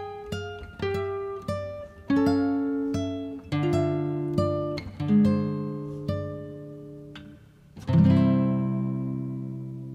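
Background music: a guitar picking a melody one plucked note at a time, then a chord struck about eight seconds in that rings and slowly fades.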